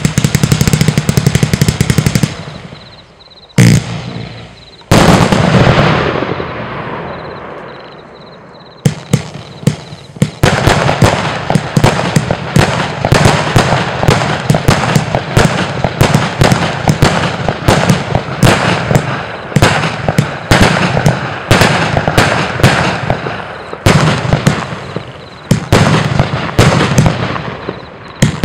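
Geisha 'Devils Dynamite' 259-shot firework compound battery firing. A fast string of shots runs for about two seconds, then come two heavy bangs, each followed by fading crackle. From about nine seconds in, a continuous rapid volley of shots and crackling takes over.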